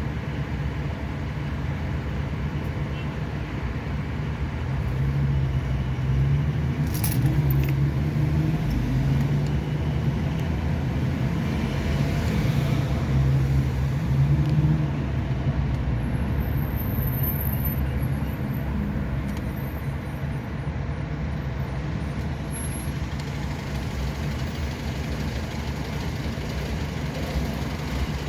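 A motor vehicle's engine running steadily with road noise, a low drone that wavers a little in pitch and swells somewhat around the middle.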